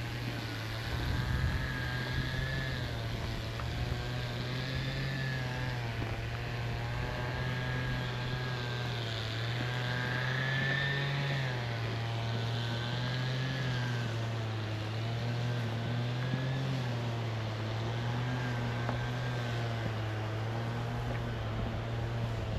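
A continuous engine drone whose pitch wavers slowly up and down.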